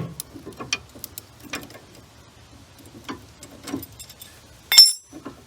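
Irregular metal clicks and knocks from hand tools, a 1/4-inch ratchet with a T40 bit, working on a seized sway bar end-link nut. Near the end comes a louder metallic clink that rings briefly.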